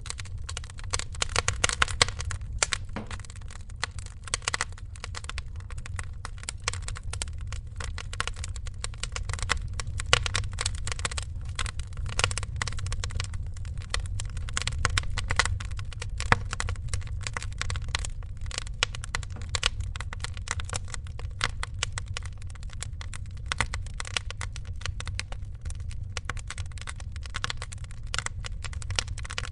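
Wood fire crackling with many small irregular pops and snaps over a steady low rumble.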